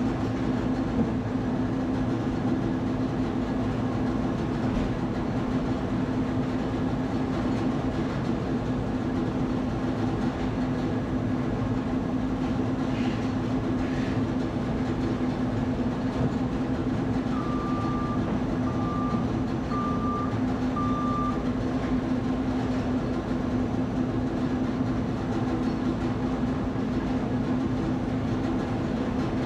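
A steady mechanical drone with a strong low hum, like a running engine or vehicle, with a run of four short high beeps about two-thirds of the way in.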